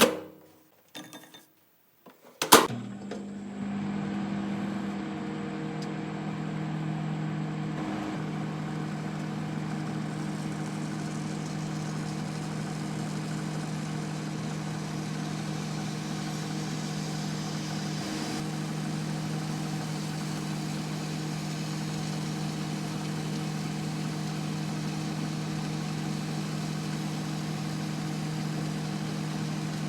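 A few light clicks, then a loud click about two and a half seconds in, as a microwave oven starts up and runs with a steady low hum.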